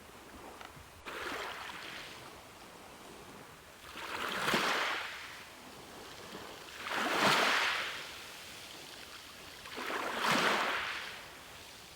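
Ocean waves washing ashore in slow surges, roughly every three seconds. A small wash comes about a second in, and three larger waves break and recede after it.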